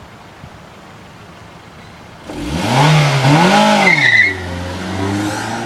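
Suzuki Aerio SX four-cylinder engine idling, then about two seconds in revving hard as the car launches, with tyre squeal and an engine pitch that rises and falls twice. It then settles into a steadier, slowly climbing engine note as the car accelerates away.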